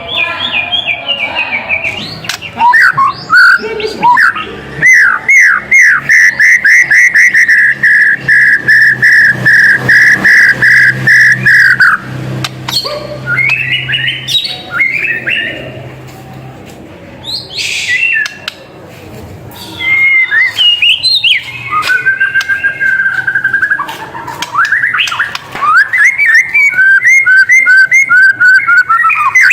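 White-rumped shama singing loudly: a varied song of clear whistles and chattering phrases, with a long run of quickly repeated notes lasting several seconds, and a shorter run near the end.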